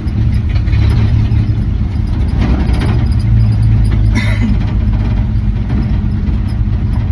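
1967 Dodge D100's 225 slant-six engine running steadily as the pickup drives, with road noise. A short sharp noise stands out about four seconds in.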